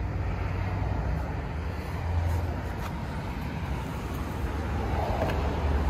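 Car engine idling steadily, a low hum under a haze of outdoor noise.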